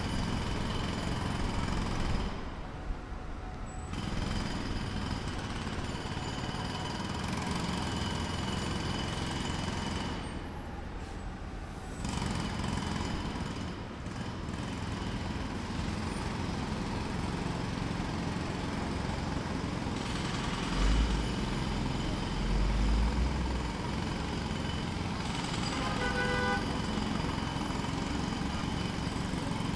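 Distant jackhammer hammering in a steady rapid rhythm amid urban traffic noise, pausing briefly twice in the first half. A short pitched tone, like a vehicle horn or brake squeal, sounds near the end.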